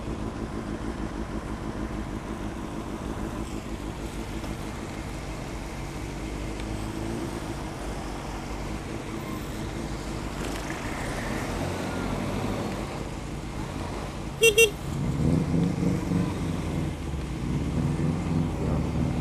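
Vehicle engines idling in traffic, with two short horn toots in quick succession about fourteen seconds in, then a vehicle engine getting louder and revving near the end.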